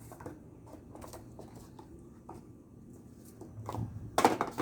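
Light scattered taps and clicks of soap molds and utensils being handled, with a louder clatter of knocks near the end.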